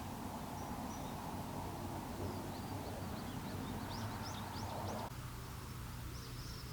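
Small birds chirping in quick, short high notes over a steady rushing background; the rushing cuts off abruptly about five seconds in.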